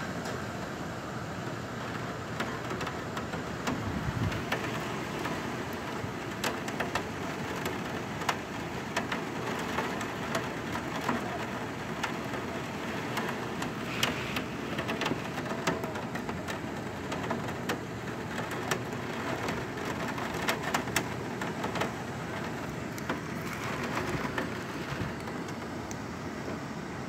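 Heavy rain pouring steadily, with many scattered sharp ticks of drops striking hard surfaces.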